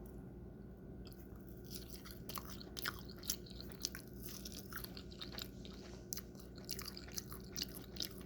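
Close-up chewing of waffles and sausage: many short, sharp, wet clicks of the mouth and jaw, starting about a second in.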